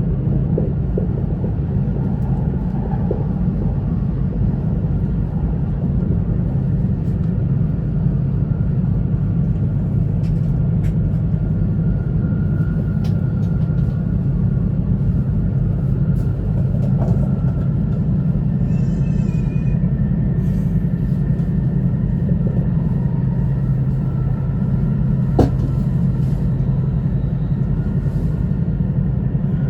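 E2-series Shinkansen train running, heard inside the passenger cabin: a steady low rumble with a few faint clicks, and one sharp click near the end.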